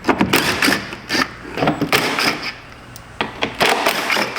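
A small cordless power tool running in three short bursts of about a second each, spinning out the 10 mm screws that hold a fender liner.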